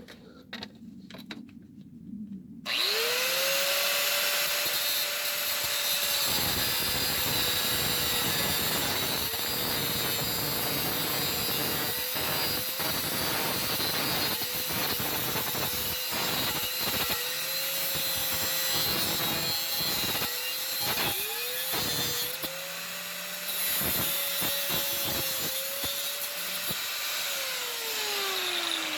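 Die grinder spinning up about three seconds in and cutting through the corroded steel dipstick tube, its high whine dipping briefly each time the wheel bites, then winding down with a falling whine near the end.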